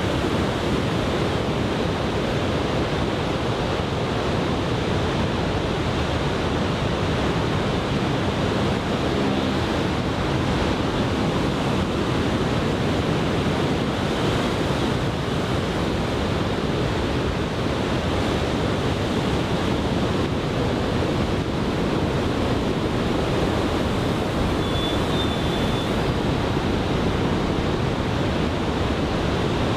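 Large typhoon-driven surf breaking continuously on the beach, a steady wash of noise, with wind buffeting the microphone.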